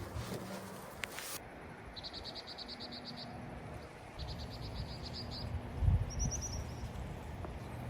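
A small bird singing rapid trills of evenly spaced high notes, three runs, the last one higher-pitched. Under it is a low rumble of wind on the microphone, swelling in a gust about six seconds in.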